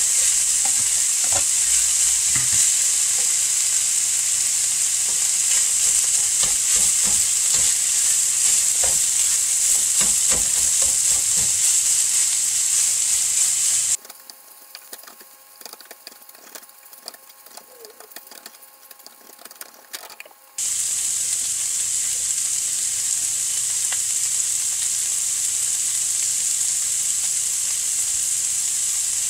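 Diced vegetables and shredded chicken sizzling steadily in a frying pan, with a wooden spatula stirring and scraping through them for the first twelve seconds or so. About halfway the sizzle drops suddenly to a faint background for several seconds, then comes back as strong as before.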